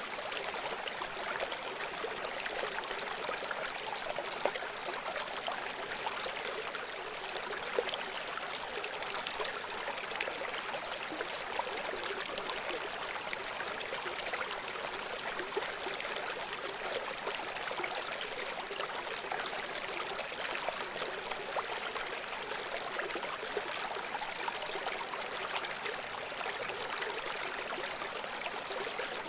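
Shallow stream running steadily, water trickling and gurgling over stones.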